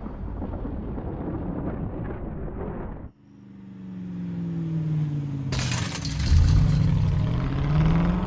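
Film soundtrack car sound: a dense rumbling run that cuts off abruptly about three seconds in, then an engine revving, its pitch rising and falling and swelling louder toward the end.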